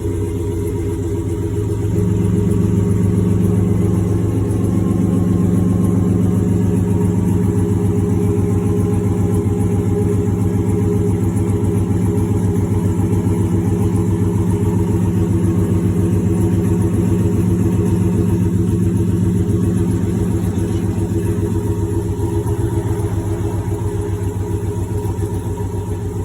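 Chevrolet Silverado pickup's engine idling just after a cold start, heard through aftermarket long-tube headers, a Vibrant resonator and a Corsa Sport exhaust: a steady, deep exhaust note. The idle steps up slightly about two seconds in and eases a little near the end.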